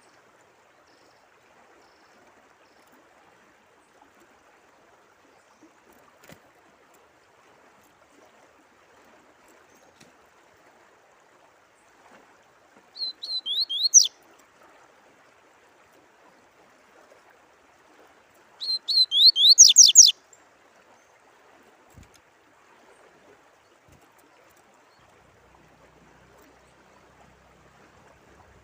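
Songbird singing two short phrases of quick rising whistled notes, the second longer and louder, over a faint steady trickle of running water.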